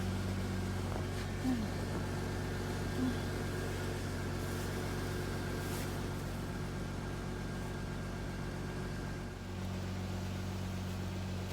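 Steady hum of a car's engine and cabin while driving, with a constant low drone and a faint higher whine, which drops away briefly about nine and a half seconds in and then comes back.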